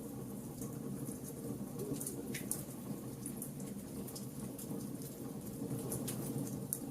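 Wood fire burning: a steady low rush of flames under frequent small, irregular crackles and pops from the burning wood.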